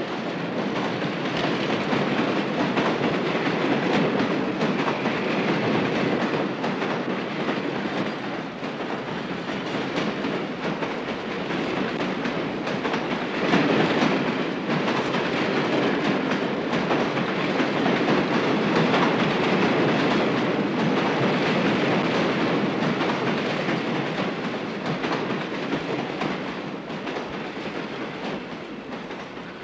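Train running on the rails, a steady noisy clatter that swells briefly about halfway through and fades away near the end.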